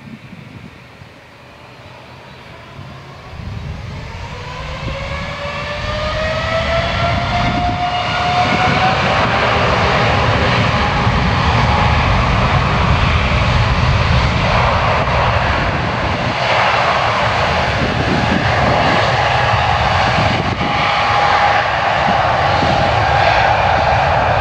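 Airliner jet engines spooling up: a whine rises in pitch and grows louder over about eight seconds, then holds steady over a loud rumble, as for takeoff thrust.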